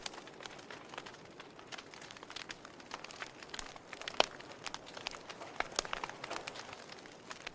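Wood fire in a fireplace crackling, with irregular sharp pops and snaps over a soft hiss. The loudest pop comes about four seconds in.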